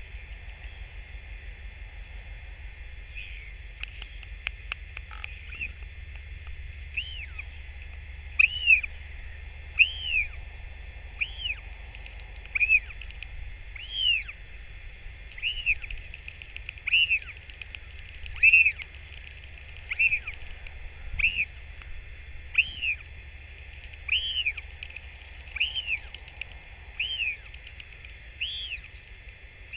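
A bird calling a short, rising-then-falling note over and over, about once every second and a half, starting some seven seconds in, over a low steady rumble.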